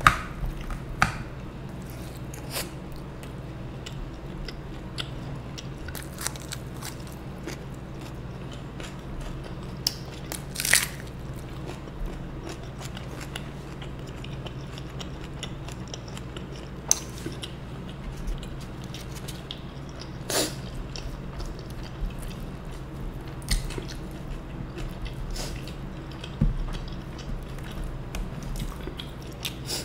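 Close-miked eating: chewing and biting of roti and soya manchurian, with irregular wet mouth clicks and short smacks over a steady low hum.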